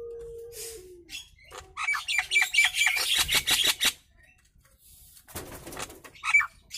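Nias hill myna calling: a steady low whistle that dips at its end, then a fast chattering run of sharp notes at about five a second, followed by a short harsh squawk and a brief call near the end.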